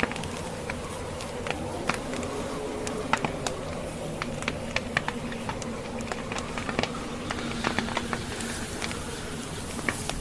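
Wood fire crackling, with irregular sharp pops several times a second over a steady low hum.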